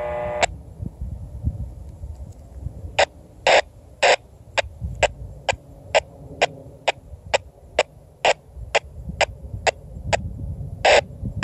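Freight train wheels clicking over rail joints in a steady rhythm, about two clicks a second with some louder than others, over a low rolling rumble as the intermodal train passes.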